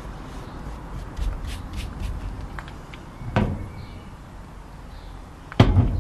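Low rumbling handling noise with faint clicks, and two dull thumps, the second one louder, near the middle and near the end.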